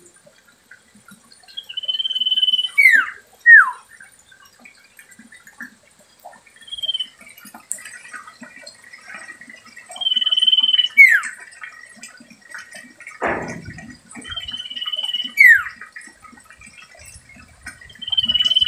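Common iora (cipou) singing its name-like phrase: a steady high whistle held for about a second, then a quick sliding-down note, repeated about five times. A single brief thump comes about two-thirds of the way through.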